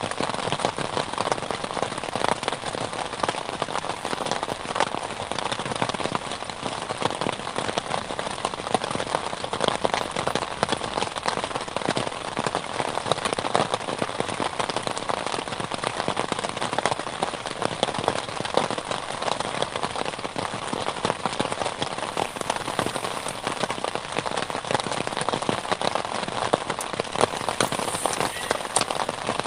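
Heavy rain falling steadily, a dense, unbroken patter of drops striking a surface.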